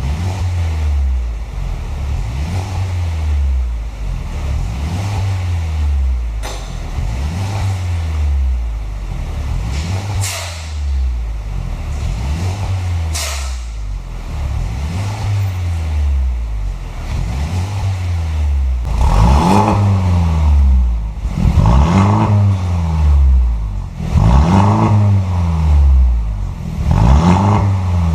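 Mercedes-Benz W205 C200 Cabriolet's aftermarket dual valved exhaust as the engine is revved up and let fall back over and over, about one rev every two to three seconds. The revs get louder and fuller over the last third.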